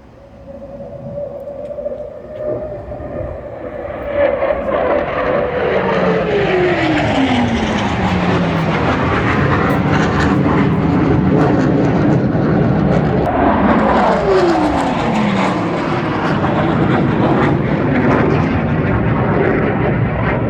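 Aircraft flying past low: a loud rushing engine noise builds over the first few seconds and stays loud. Its tone drops steeply in pitch as it passes, between about five and nine seconds in, and again more quickly around fourteen seconds in.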